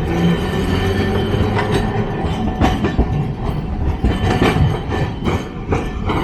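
Nagasaki Electric Tramway streetcar passing close by: a low running rumble with its wheels clattering over rail joints in a string of irregular knocks.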